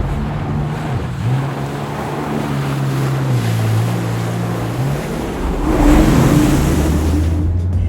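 Sea-Doo personal watercraft running across open water, its engine holding a steady note that shifts pitch a few times as the throttle changes. Wind and splashing spray are mixed in, with a louder rush of spray about six seconds in.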